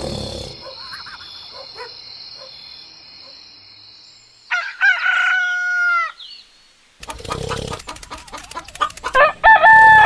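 A rooster crowing twice, the second crow louder and starting near the end. A snore fades out at the very start, and a stretch of clicking comes between the crows.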